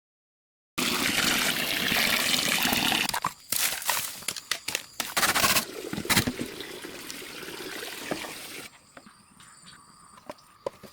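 Water running or splashing for a few seconds, then a series of sharp knocks and clicks that fade into quieter outdoor sound.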